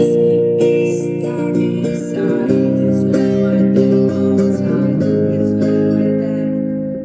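Guitar playing an instrumental passage of sustained, strummed chords, changing chord about two and a half seconds in.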